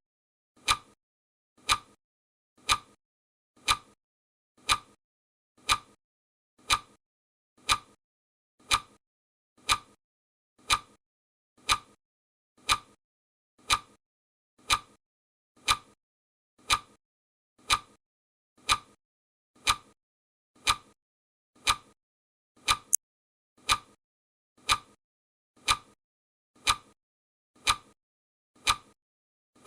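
Clock ticking steadily at one sharp tick a second, the ticking sound of a countdown timer.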